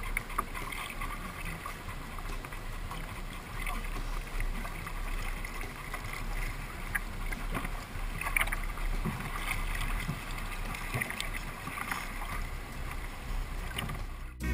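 Water sloshing and small scattered splashes around a sea kayak on open water.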